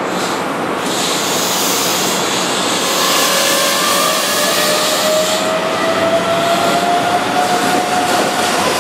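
Keihan 9000 series electric train pulling away from the platform: a rising whine from its traction motors as it speeds up, over the running rumble of the cars and a hiss.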